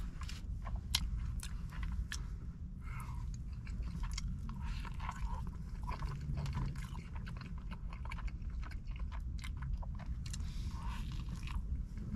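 A person chewing a mouthful of fried chicken sandwich close to the microphone, with frequent small crunching clicks and mouth sounds, over a steady low rumble.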